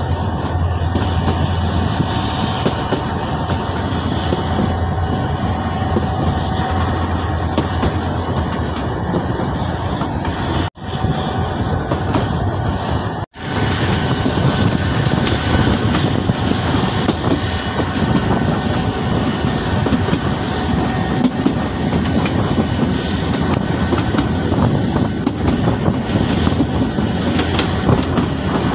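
Passenger train coaches running along the track, heard from an open coach window: a steady rumble of wheels on the rails. The sound drops out for an instant twice, about eleven and thirteen seconds in.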